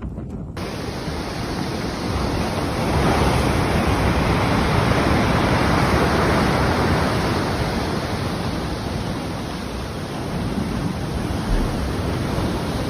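A loud, steady rushing noise, like strong wind or pounding water, that swells for a few seconds around the middle.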